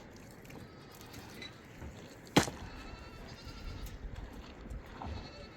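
Livestock bleating faintly, with one sharp knock about two and a half seconds in.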